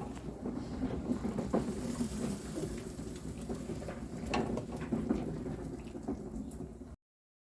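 Steady crackling, hissing noise with a low rumble underneath and a few sharp clicks. It cuts off abruptly about seven seconds in.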